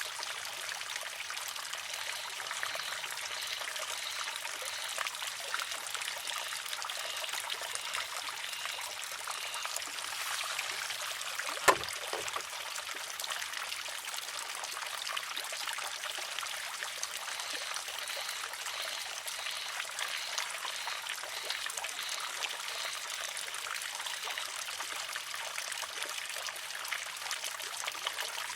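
Water trickling steadily from a spout into a wooden shishi-odoshi. About twelve seconds in, the filled arm tips and strikes its rock with one sharp clack, the loudest sound here.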